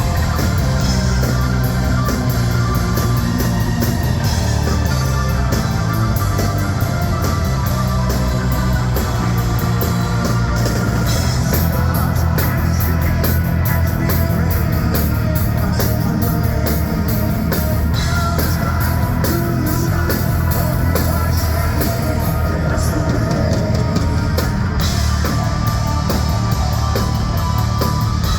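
Hard rock band playing live, with drum kit and electric guitar, loud and unbroken.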